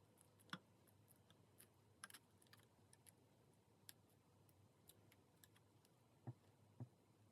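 Near silence with faint, scattered small clicks and taps from handling the phone's removed display and parts on the bench, with two slightly louder soft knocks near the end.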